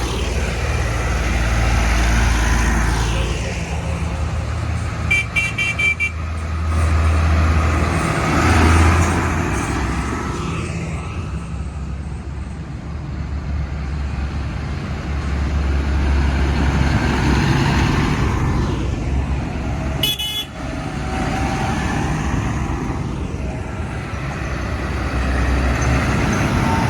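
Vehicle engines running, a low drone that swells and fades, with a few short horn toots about five seconds in and another sharp sound around twenty seconds in.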